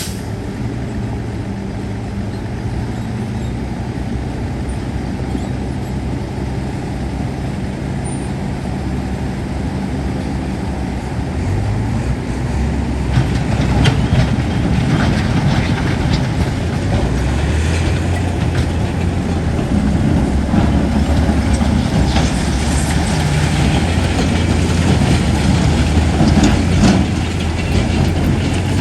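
Heavy diesel earthmoving machinery running steadily. About twelve seconds in it works harder: the engine note drops and grows louder, with scattered metal clanks and knocks.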